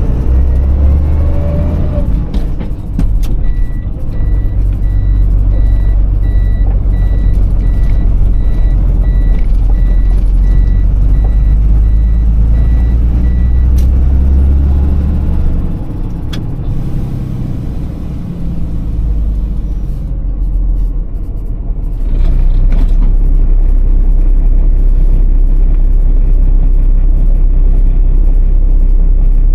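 Iveco Tector six-cylinder diesel truck engine running under way, heard from inside the cab, with a regular high beeping tone repeating for about ten seconds early on. The engine drops back in the middle and runs loud and steady again in the last third.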